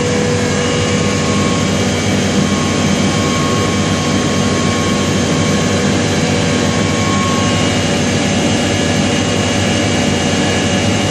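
Supercharger-type air compressor running steadily under load while it builds up air pressure, nearly at its target. A constant hum with a few steady whining tones above it.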